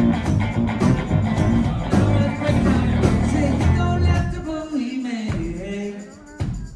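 Live pop-rock band playing, with guitar and bass. About four seconds in the bass and drums drop away, leaving a sliding vocal line over sparse backing.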